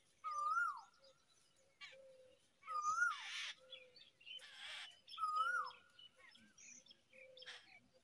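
Birds calling: a clear whistled call, a held note that bends up and then falls, repeats three times, with two harsh hissing calls in between and soft low short notes scattered throughout.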